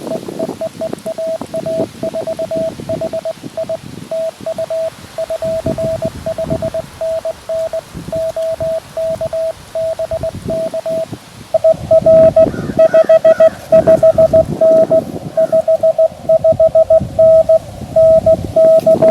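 Morse code (CW) tones from a QRP Labs QMX transceiver, a single steady note keyed on and off in dots and dashes during a contact exchange. About eleven and a half seconds in, the keyed tone becomes much louder.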